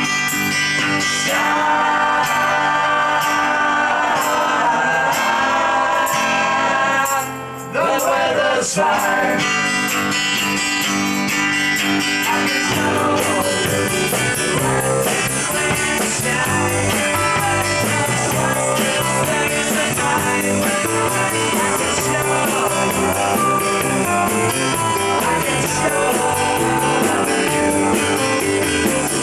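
Rock band playing live, with guitar to the fore; the music drops out briefly about seven seconds in, then runs on with busier, evenly paced high strokes from about halfway.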